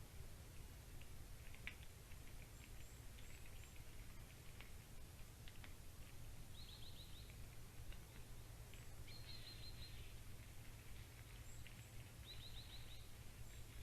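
Small birds calling faintly, in short groups of quick high chirps a few times over, with thin high notes and scattered ticks between, over a steady low hum.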